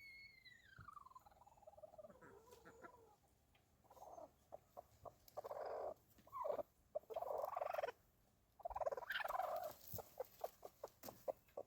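Domestic fowl calling: a long call sliding down in pitch at the start, then several squawky calls, then a quick run of short clucks near the end.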